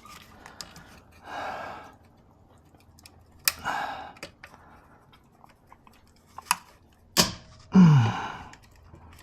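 Hand work on car parts: scattered sharp clicks and taps with short rustling scrapes, and a brief low grunt-like voice sound near the end.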